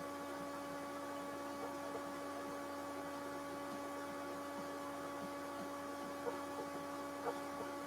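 Steady electrical hum with a few faint ticks, under a low hiss.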